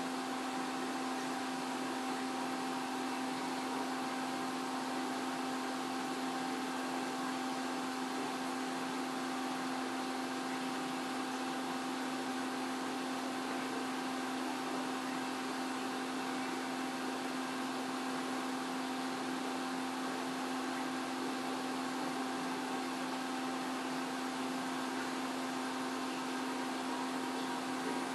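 Steady mechanical hum with an even hiss and two constant tones, typical of aquarium equipment such as a filter or pump running.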